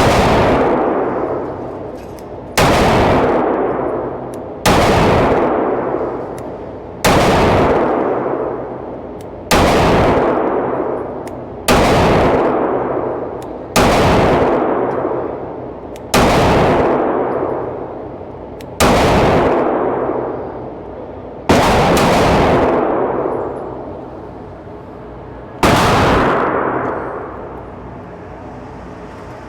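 9mm pistol fired at a steady pace, about a dozen shots roughly two seconds apart, each trailing off in a long echo.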